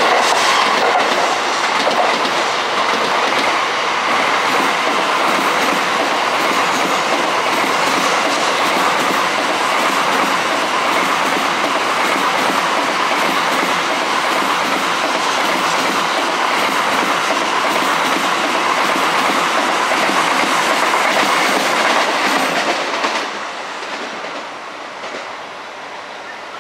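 Electric train running past on the tracks, a steady loud noise of wheels on rails that falls away quickly about 23 seconds in.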